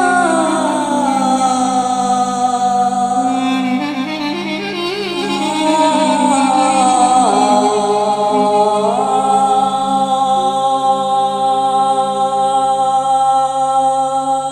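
Georgian folk song sung live: long held notes without words, gliding down and back up in pitch about halfway through, over a steady sustained accompaniment.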